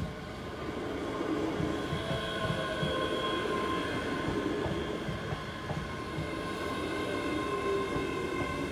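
Electric multiple unit passing over the level crossing: the rumble of the train grows louder about a second in, with wheels knocking over the rail joints and several steady high tones above.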